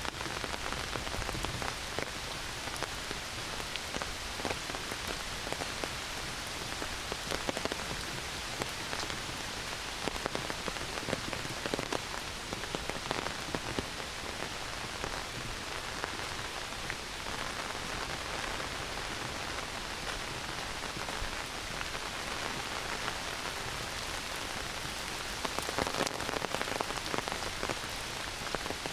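Heavy rain falling steadily through forest trees, pattering on leaves and the ground with many close drips, a little heavier near the end.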